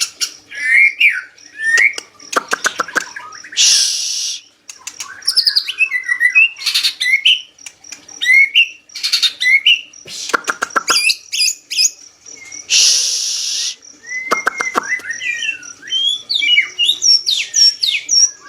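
White-rumped shama (murai batu) singing continuously: quick rising and falling whistled phrases mixed with fast rattling trills, and two harsh hissing bursts at about four and thirteen seconds in. It is in full, vigorous song.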